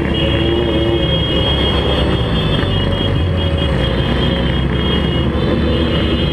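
Motorcycle engines running steadily on the move, a loud dense mechanical sound; a higher engine note drops away about a second in.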